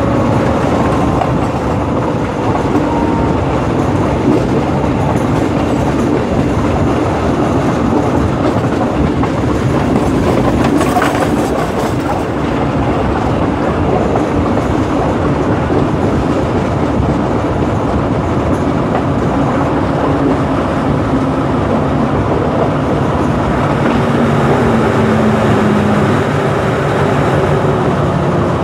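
Diesel locomotive and passenger carriages of a train running along the track: a steady engine drone with wheels clattering over the rails. The engine note steps down near the end as the train slows into a station.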